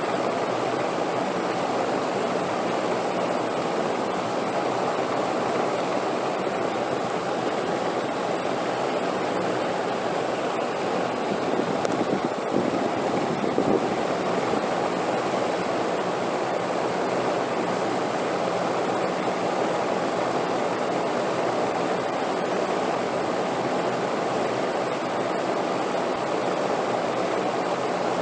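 Steady rushing wind: a dense, even whoosh with no gusts or breaks, swelling slightly about twelve seconds in.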